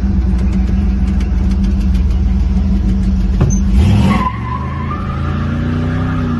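Oldsmobile 350 Rocket V8 in a 1954 Ford F-100 running steadily. About four seconds in there is a short loud sweep, and then the engine note changes and slowly rises, as when the truck pulls away and accelerates.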